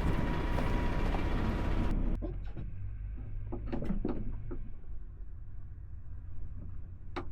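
Truck engine idling with a steady low hum. A loud rushing noise over it cuts off abruptly about two seconds in, followed by a string of short knocks and clicks as something is handled.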